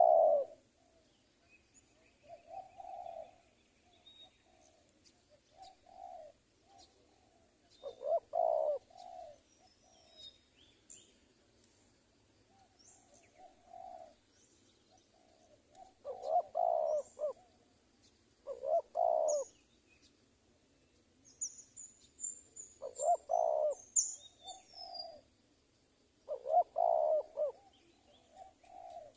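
Spotted doves cooing: phrases of low coos repeated every few seconds, some loud and some softer, with faint high chirps of small birds between them.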